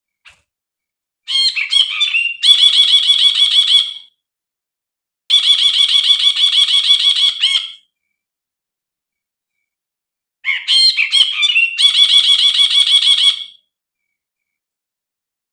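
Brinji bulbul song repeated three times, each phrase a fast, even trill of high notes lasting about two and a half seconds. The first and last phrases open with a few quick varied notes. It is a lure and tutor recording for caged brinji, with silent gaps between the phrases.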